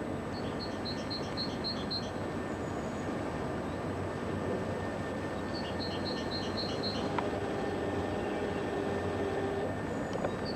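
A small bird singing a short phrase of about seven quick, evenly spaced high notes, repeated three times roughly five seconds apart, over a steady background noise.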